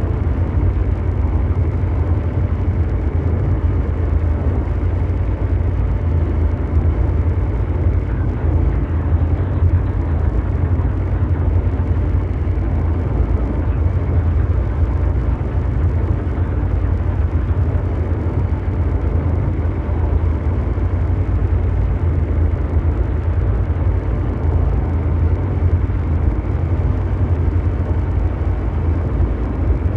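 Ambient mechanical drone: a steady, deep engine-like rumble blended with brown noise, unchanging throughout.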